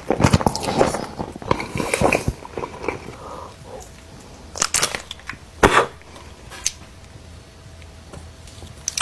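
Close-miked eating sounds of In-N-Out food: crunchy bites and chewing. They come thick and fast for the first two seconds, then thin out to a few sharp crunches around the middle.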